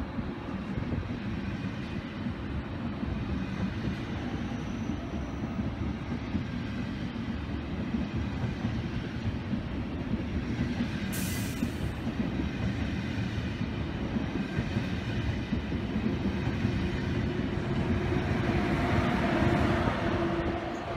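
ICE 1 high-speed train's carriages rolling past with a steady rumble of wheels on rail. There is a brief hiss about halfway through. Near the end it grows louder, with a steady hum, as the rear power car goes by.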